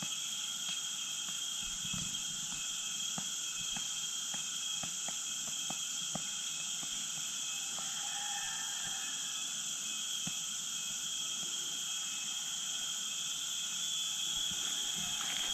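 A steady, unbroken high-pitched chorus of insects, with a thin continuous whine riding above a hissing drone, and a few faint ticks.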